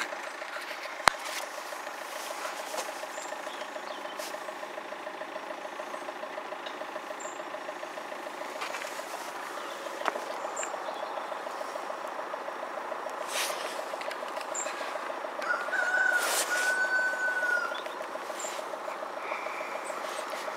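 Level crossing warning alarm sounding continuously with a fast, warbling yodel tone, which means the crossing is closed for an approaching train. Light rain hiss lies under it, and a brief higher whistle-like tone comes in about 16 seconds in.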